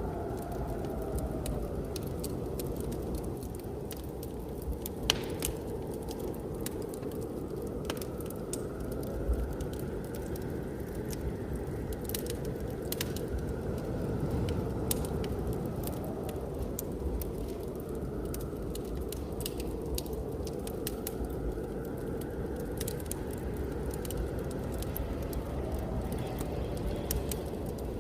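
Wood fire crackling in a fireplace, with frequent sharp pops and a few louder cracks, over the steady low rush of blizzard wind with a faint whistle that slowly rises and falls.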